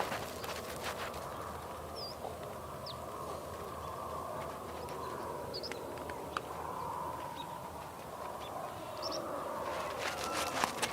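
A flock of sheep outdoors, with a steady background murmur and clusters of clicking and shuffling near the start and again near the end. Small birds chirp briefly now and then.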